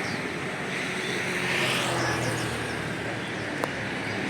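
Steady urban traffic noise with a low engine hum that swells briefly about two seconds in, under faint bird chirps. A single sharp click sounds near the end.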